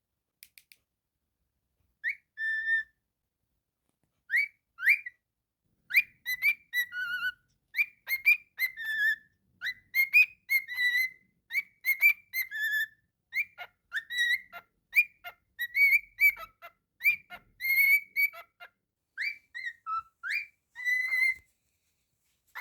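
Cockatiel whistling a tune: a long string of short, clear whistled notes, many sliding quickly upward, starting about two seconds in and running almost to the end.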